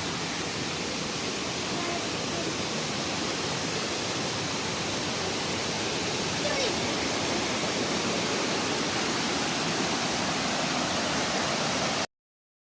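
Waterfall's water rushing in a steady, even roar, cutting off abruptly near the end.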